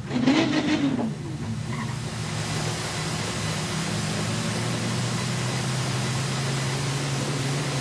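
Dirt-track production sedan engines running at idle and low revs, a steady low hum with a noisy haze over it. A brief voice is heard in the first second.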